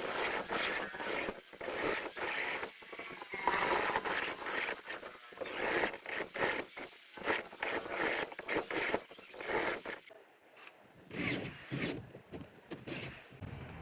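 Repeated scraping strokes of a hand tool on wood, worked back and forth in uneven strokes about one or two a second. They pause briefly about ten seconds in, then resume more sparsely.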